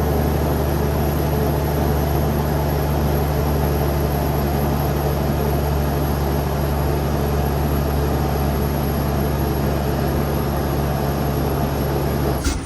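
Cummins X15 diesel engine of a Kenworth T800 truck running steadily, a constant low drone with no change in pitch. It breaks off abruptly near the end.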